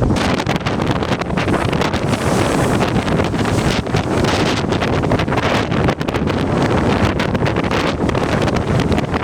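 Strong storm wind buffeting the microphone: a loud, continuous rumble with rapid crackling gusts and no letup.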